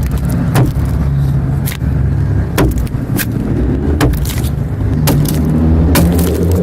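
An adze chopping into a pine log, with sharp blows landing irregularly about once a second and chips coming off, over a steady low hum.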